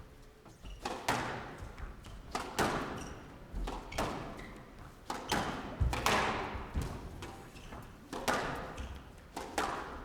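Squash rally: the ball cracking off rackets and the court walls in sharp, irregular knocks, often in quick pairs, each ringing out with a hall echo.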